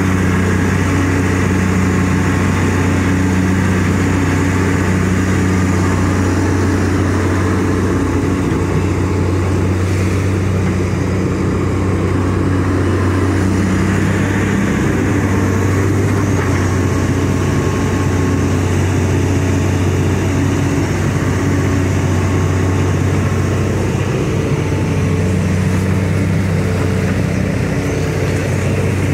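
Hitachi EX200-5 excavator's diesel engine running steadily under working load, a deep even drone, while the machine digs.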